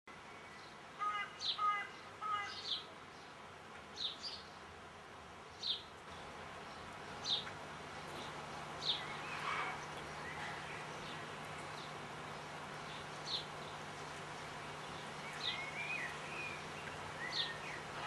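Small garden birds calling: short sharp chirps repeated every second or so, with a burst of quick chirps about a second in and a few twittering notes near the end.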